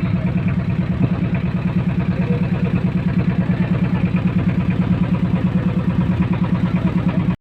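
Engine of a river motorboat running steadily, a rapid even thumping of about ten beats a second.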